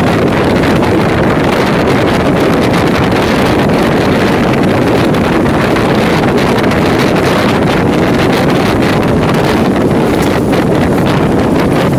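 EMU local train running along the line: a steady, loud rumble of wheels on track with wind buffeting the microphone.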